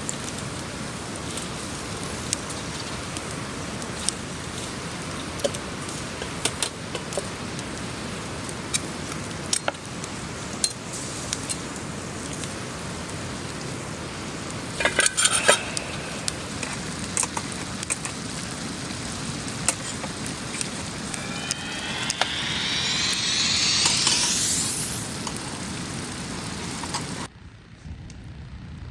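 Sukiyaki sizzling in a pan over a campfire, with scattered clinks of chopsticks and dishes and a quick run of clinks about halfway through. A rising whine comes in near the end, and the sound drops off suddenly just after.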